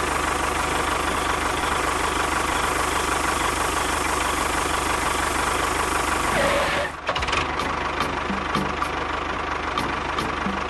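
A machine running steadily with an engine-like drone. About seven seconds in, the sound breaks off and changes to a lighter running with a regular ticking, about three ticks a second.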